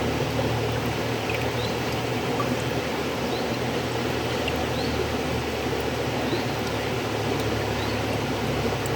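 River water flowing steadily: an even, continuous rushing noise with a deep low rumble underneath. A few faint, short high chirps come through now and then.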